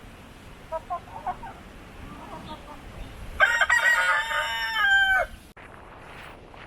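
A rooster crowing once: one long call, held for nearly two seconds and dropping in pitch at the end. It follows a few short clucks about a second in.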